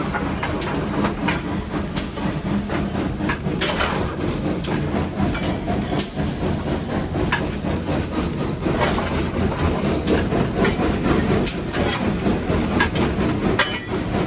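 Cab sound of Nevada Northern No. 81, a Baldwin 2-8-0 steam locomotive, working under steam: a steady heavy rumble with steam hiss, broken by irregular sharp metallic clanks.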